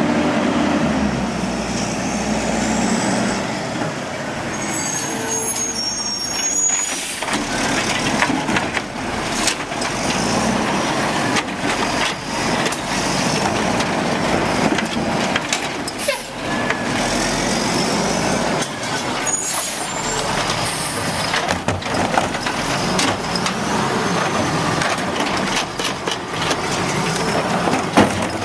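Automated side-load garbage truck running, with a high air-brake squeal and hiss about five seconds in and scattered mechanical knocks and clunks.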